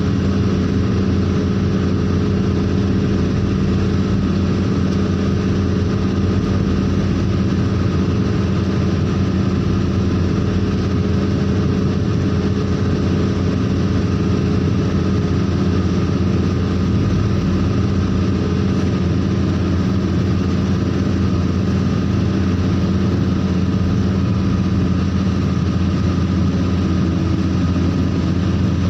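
Truck engine running steadily at a constant speed, with a low, even hum that does not rise or fall.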